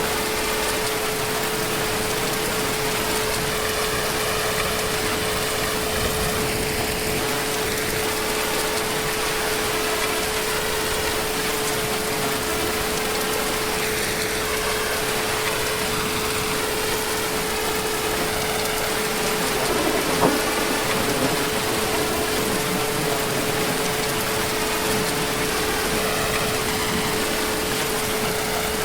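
Heavy rain falling steadily as an even hiss, with a thin steady hum underneath. There is one brief sharper knock about twenty seconds in.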